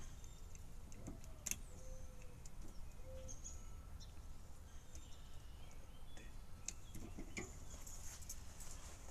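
Faint bird calls and a few light clicks, with no sound from the golf cart's starter: the cart does not even tick, its battery dead.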